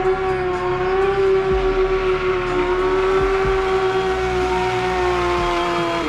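Stunt motorcycle engine revved up and held at high revs, a steady high-pitched note that falls away suddenly at the end.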